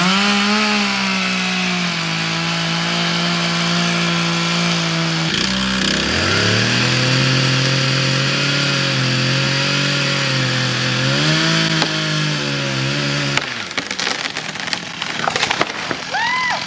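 Chainsaw running at high revs through the felling cut. Its engine pitch sags and recovers as it works, eases off briefly about five seconds in, then revs back up. It cuts off about thirteen seconds in, followed by a few sharp cracks.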